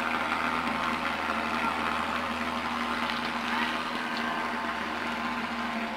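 Truck-mounted thermal fogger spraying anti-mosquito fog, running with a steady drone.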